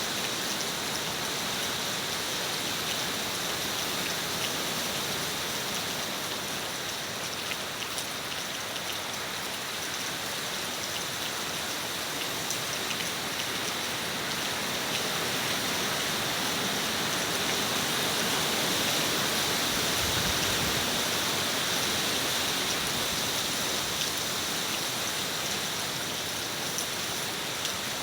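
Steady heavy rain, an even hiss with many fine drop ticks. The rain swells slightly past the middle, with a brief low rumble of a wind gust.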